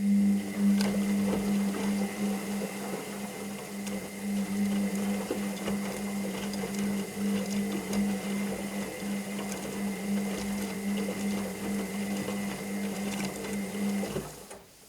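Washing machine motor running, turning the drum with a steady hum and a thin high whine, over irregular clicks and rattles. It cuts off shortly before the end, the pause between drum turns in a wash cycle.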